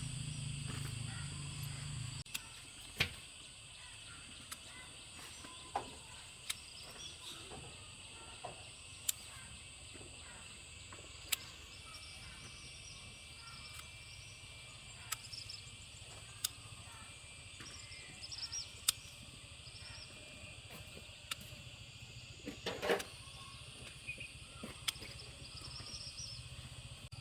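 Outdoor rural ambience: a steady high-pitched drone with scattered sharp clicks and snaps, a cluster of them about 23 seconds in, and a low hum during the first two seconds.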